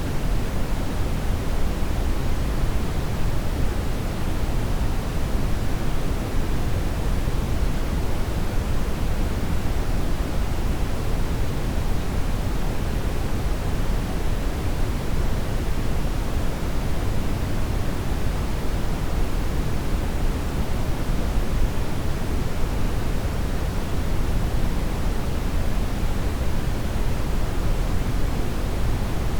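Brown noise: a steady, deep rushing hiss, heaviest in the bass and softer in the treble.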